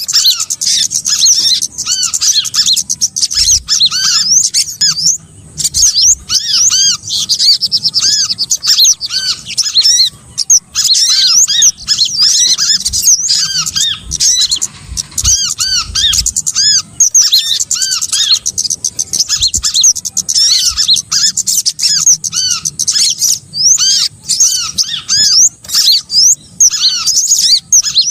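Several small birds calling together in a dense, rapid run of high-pitched chirps and trills, over a lower short arched note that repeats about twice a second. It is a mixed small-bird lure recording of the kind played to draw wild birds in.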